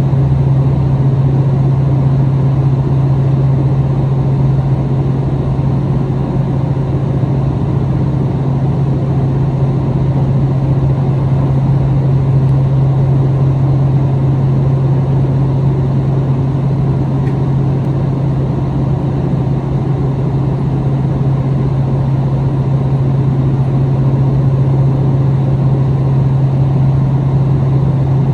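Interior running sound of a KiHa 261 series diesel limited-express railcar, heard from a seat between the car's two diesel power units. The engine hum holds a steady low pitch, over an even rumble of running noise.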